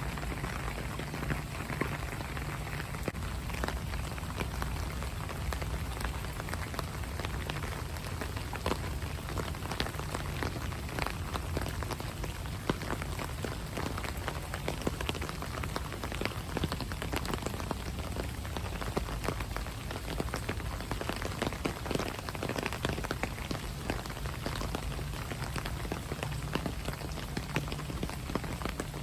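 Steady rain falling, with many individual drops tapping sharply against a surface.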